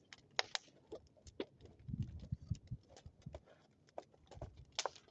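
Bonfire crackling with irregular sharp pops of burning wood, and a few dull low thuds about two seconds in and again just past four seconds.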